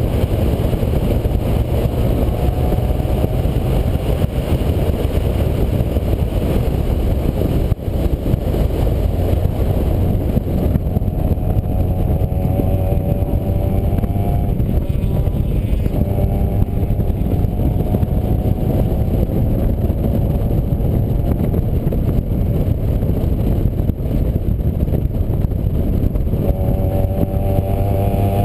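Vehicle engine running under way amid a heavy, steady low rumble, its engine note rising gently several times.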